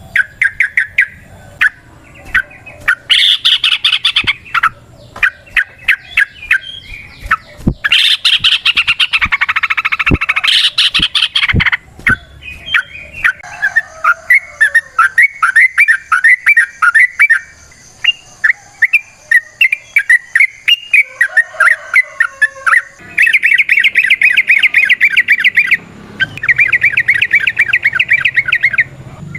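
Yellow-vented bulbul singing: long runs of fast, chattering repeated notes, with denser bursts of rapid trilling and, near the end, a fast even trill of one repeated note.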